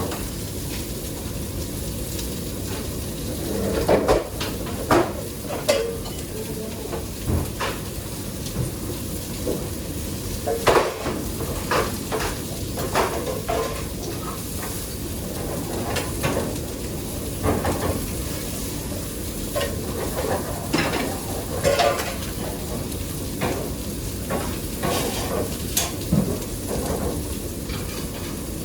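Kitchen cooking sounds: a steady sizzle of food frying in a pan, with irregular clinks and scrapes of a utensil stirring against the pan.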